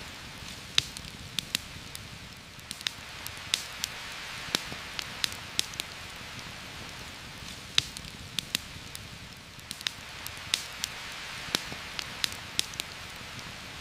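Heavy rain falling steadily through forest foliage, a constant hiss, with a campfire crackling over it in irregular sharp pops, a few much louder than the rest.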